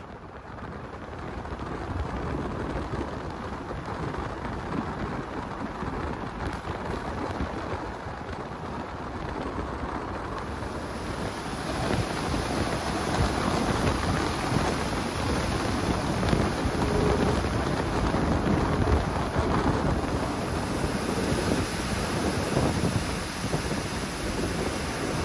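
A passenger train running, heard from an open carriage window: a steady rumble of wheels on rails mixed with wind rushing past. It grows louder and brighter about eleven seconds in.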